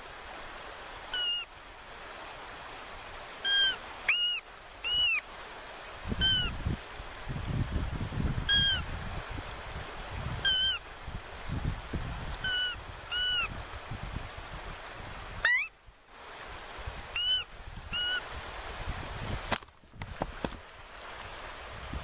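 A bird calling over and over: about a dozen short, sharp calls, each with a slight rise and fall in pitch, spaced irregularly a second or two apart, with one longer upward-sweeping call after the middle.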